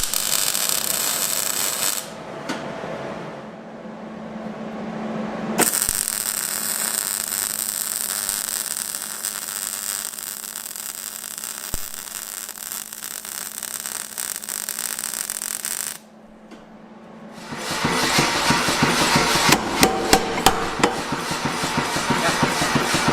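Forge workshop tools on steel: stretches of steady high hiss like grinding, broken by brief quieter gaps, then a loud, rapid run of hammer strikes near the end.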